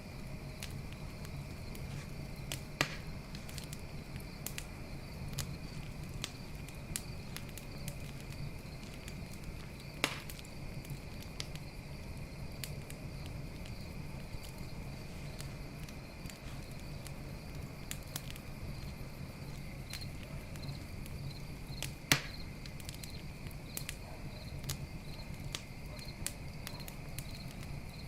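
Campfire crackling with constant small snaps and three loud pops, over a low steady rumble, while crickets chirp steadily.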